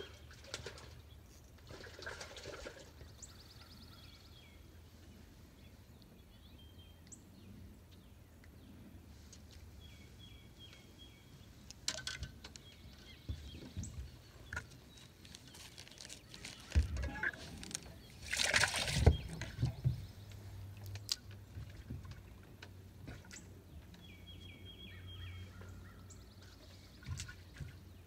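A songbird repeating a short phrase of quick high notes every so often, with scattered knocks from handling gear on the boat's deck. About two-thirds of the way through comes the loudest sound, a brief rush of noise with a couple of thumps.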